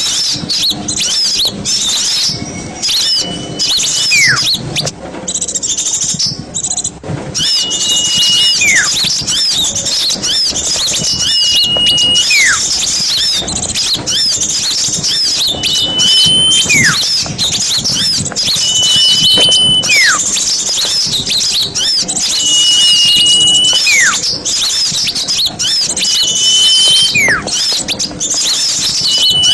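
A noisy chorus of many small birds twittering and chattering, high-pitched and continuous. Over it, a call repeats about every four seconds: a short held whistle that drops away in a quick downward slur. This is the kind of track played to lure forest birds.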